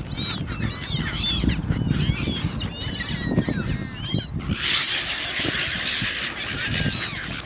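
A flock of silver gulls calling over food: many short, overlapping squawks that swell into a dense clamour about halfway through, over a steady low rumble.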